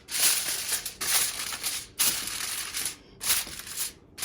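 Aluminum foil crinkling as it is pulled over a baking dish and crimped around the edges, in several bursts with short pauses.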